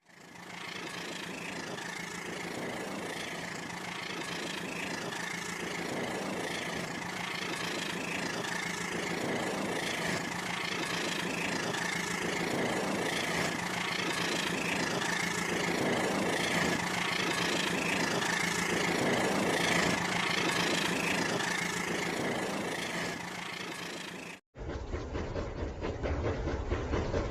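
Battery-powered toy train running: a steady motor hum with a soft rhythmic beat about once a second, slowly growing louder. Near the end it cuts off and gives way to a different running sound with more low rumble.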